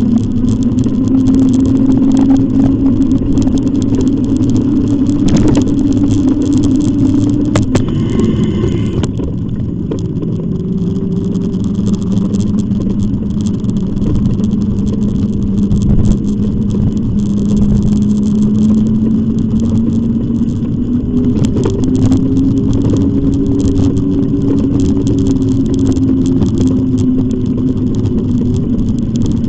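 Riding an e-bike: a steady motor hum whose pitch slowly falls and rises with speed, over continuous tyre and wind noise.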